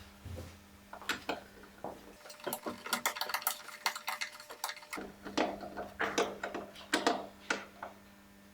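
A string of sharp clicks and light knocks from refitting a car's plastic underbody shield: plastic panels and fasteners being handled and pushed into place. The clicks come quickest from about two to five seconds in.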